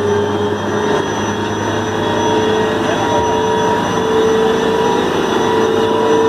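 Heavy recovery machinery running steadily, engine drone with a whine; the whine grows stronger after about four seconds.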